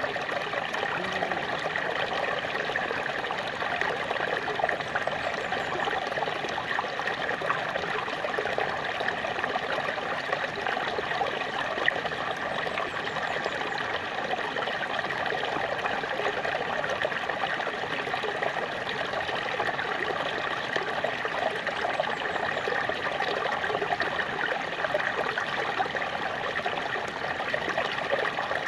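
Small waterfall splashing and trickling steadily, a continuous rush of falling water with fine, rapid spattering.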